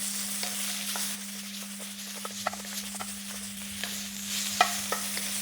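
Pork pieces sizzling in a hot wok in rendered pork fat, a steady frying hiss. A few sharp clicks of a utensil against the wok, the loudest about four and a half seconds in.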